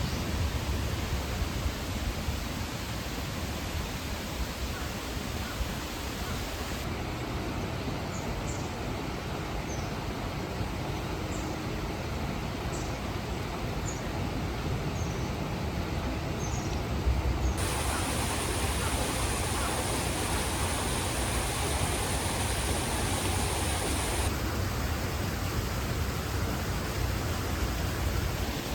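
Steady rushing of a mountain stream, with a run of short, high bird chirps in the middle stretch; the rush gets brighter for several seconds in the second half.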